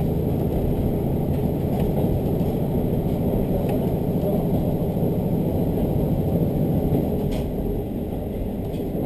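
Diesel railcar running steadily along the line, heard from inside the carriage: a low engine and wheel-on-rail rumble with a few faint clicks. It eases slightly near the end.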